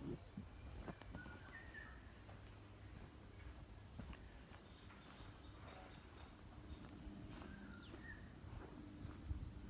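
Steady high-pitched chorus of insects, with a few short bird chirps and scattered soft footfalls on a forest trail.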